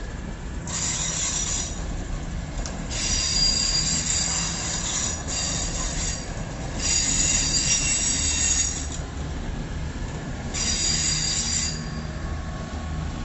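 Train wheels squealing on the rails in four high-pitched bursts of one to two seconds each, over the low rumble of the train rolling through.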